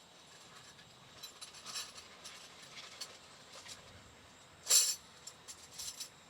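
Scattered light clicks and rustles over a faint steady hiss, with one louder, brief rustling clatter about three-quarters of the way through.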